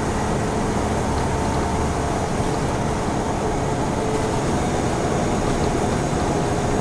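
Scania N94UB Omnicity single-deck bus under way, heard from inside: a steady mix of diesel engine and road noise with no change in pitch.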